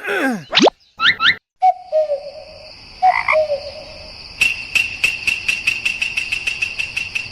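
Frog croaking in a rapid, even pulse of about five calls a second, starting a little past halfway. Before it come a few short whistle-like pitch sweeps and brief tones.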